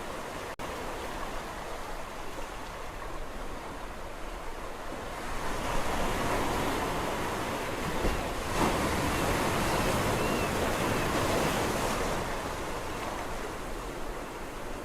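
Sea waves on a shore: a steady wash of surf that swells into a louder breaking wave about five seconds in and ebbs again after about twelve seconds. A brief click near the start.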